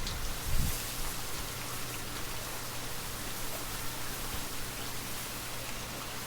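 Steady gentle rain falling, an even hiss of raindrops, with a brief low rumble of wind in the first second.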